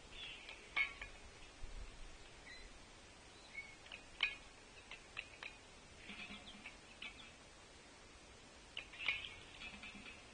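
Birds at a feeder: a few sharp, irregularly spaced taps, like pecking at the feeder, and short, high chirps and call notes.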